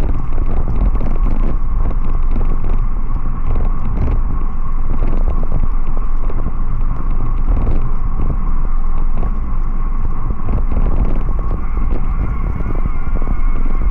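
Steady, loud wind rumble buffeting the microphone of a camera on a moving rider, with a steady high hum throughout. A second, higher tone joins near the end.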